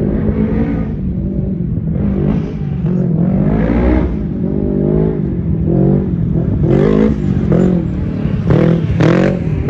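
Off-road racing vehicles' engines revving hard, the pitch rising and falling again and again as the drivers accelerate and lift off the throttle.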